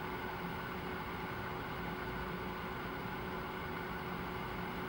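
Steady rain hiss, an even sound that doesn't change, with a faint steady hum underneath.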